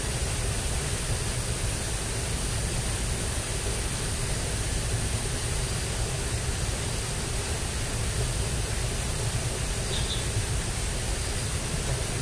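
Steady rushing noise with a fluctuating low rumble and a constant high hiss, unchanged throughout.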